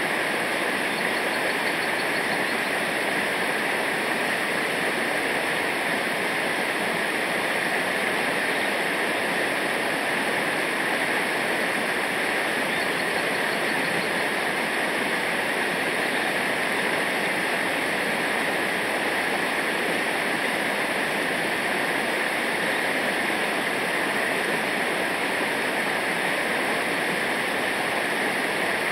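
Steady rushing of river water over rapids, a constant hiss with no breaks.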